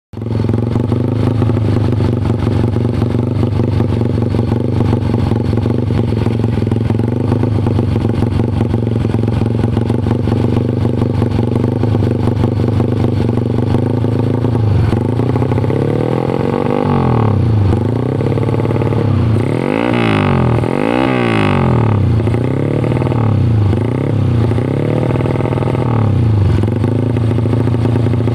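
Yamaha Jupiter MX / LC135 four-stroke single-cylinder engine running through a Proliner T-Drag aftermarket exhaust. It idles steadily for about fifteen seconds, then is revved in a series of short throttle blips, the highest near the middle of that run.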